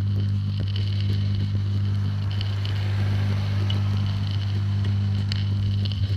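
Steady low hum on two pitches, with faint crackling over it.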